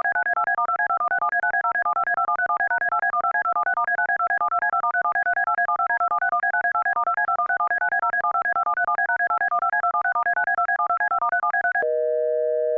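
Synthesized electronic tones: a rapid, evenly repeating beeping pattern that hops among a few high pitches over one steady tone, switching near the end to several steady tones held together like a phone-line signal.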